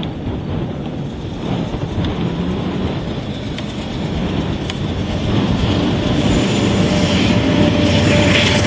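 Freight train of empty oil tank cars running on a climbing grade, a steady rail rumble that grows louder over the last few seconds, with a thin steady tone joining about six seconds in.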